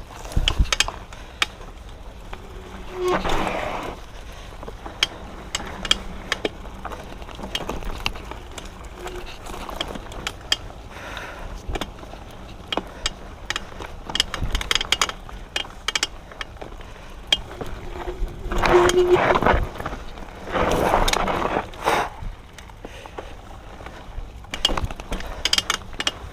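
Diamondback Line hardtail mountain bike ridden over a dirt trail: many clicks and rattles from the bike over bumps, with a few louder rushes of tyre and wind noise.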